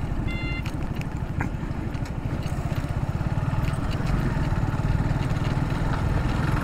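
Motorcycle engine running steadily with a low, pulsing hum that grows a little louder about four seconds in. A short electronic beep sounds just after the start, the last of a repeating beep series.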